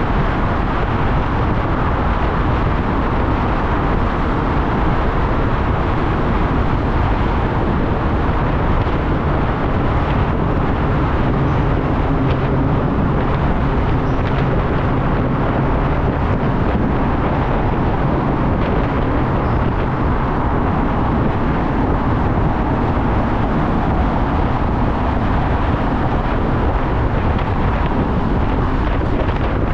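Motorcycle under way: steady engine, road and wind noise that holds level throughout.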